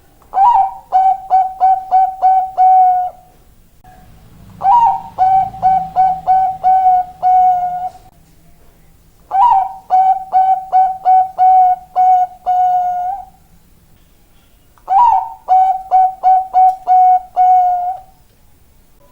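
Zebra dove (Bangkok-type perkutut) cooing: four song phrases, each a rising opening note followed by a quick run of short staccato coos and a longer held final note.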